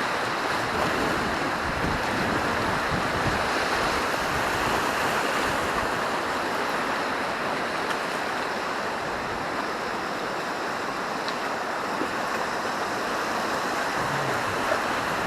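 Steady rush of river rapids, white water churning around a raft, with no pauses.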